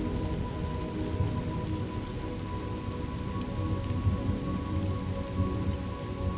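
Steady rain falling, with sustained low tones held underneath.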